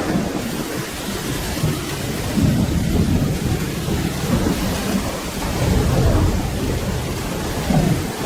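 Steady rain with low rolling thunder underneath, the rumble swelling and easing several times.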